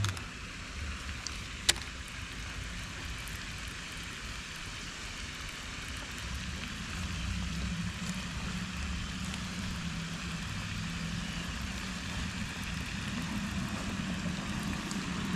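Steady low hum of a distant engine that grows a little louder about halfway through, over a steady outdoor hiss, with one sharp click near the start.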